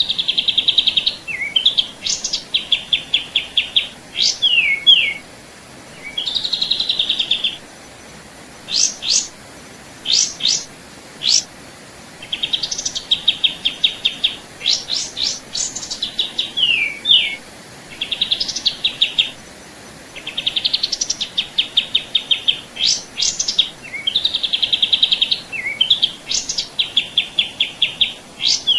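A songbird singing in repeated bouts: rapid trills of short notes mixed with sharp downslurred whistles, with brief pauses between phrases.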